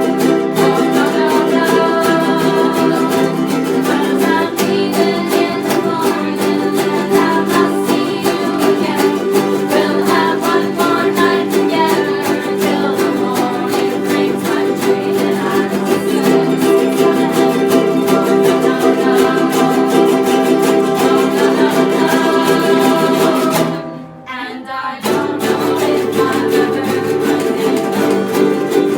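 Ukuleles strumming a song, stopping for about a second near the end before the strumming starts again.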